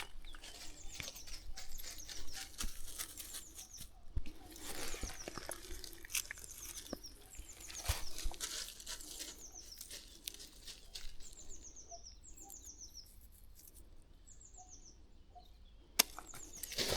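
A bird sings a run of short, high, downward-sliding notes, repeated about twice a second, over footsteps and rustling on a country path. There is a single sharp click near the end.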